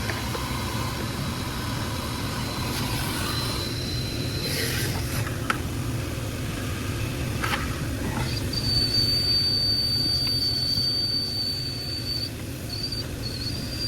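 Car wash vacuum running, sucking dirt out of a car's engine air filter box: a steady rushing hum with a thin high whine that steps up slightly in pitch about eight seconds in.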